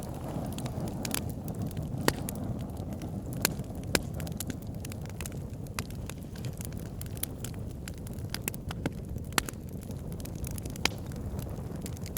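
Wood fire burning in a fireplace: a steady low roar of the flames with scattered sharp crackles and pops, a few of them louder than the rest.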